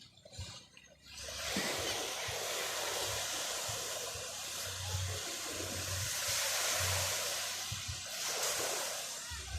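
Ocean surf washing onto a beach, a steady hiss that swells in about a second in.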